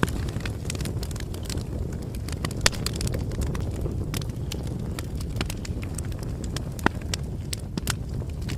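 Bonfire burning with a steady low rumble and frequent sharp crackles and pops, two of them louder, about a third of the way in and near the end.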